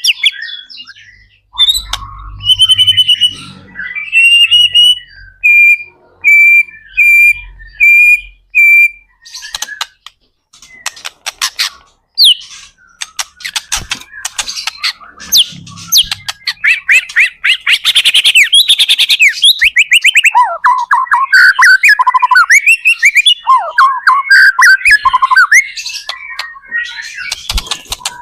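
White-rumped shama (murai batu) singing loudly. It opens with a run of about nine repeated clear whistled notes, breaks into rapid clicking chatter, and from about a third of the way in pours out a fast, varied stream of sweeping notes.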